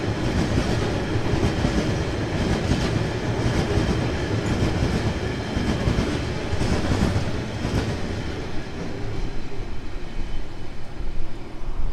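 Bulk sugar hopper wagons of a narrow-gauge freight train rolling past, wheels clicking over the rail joints, until the last wagons go by near the end, followed by low buffeting on the microphone.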